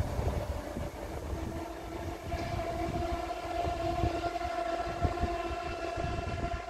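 A train on the line with a low rumble. About a second and a half in, a long steady tone with overtones starts and holds.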